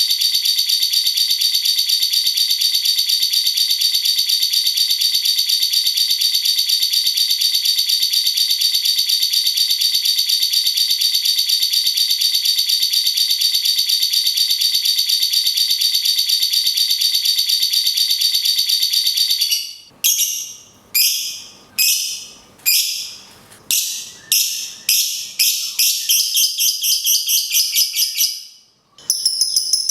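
Caged songbirds, a cucak cungkok and a lovebird, calling in a long, very fast rattling trill for about twenty seconds. It then breaks into separate rattling calls, roughly one a second, that come faster toward the end and stop briefly just before it.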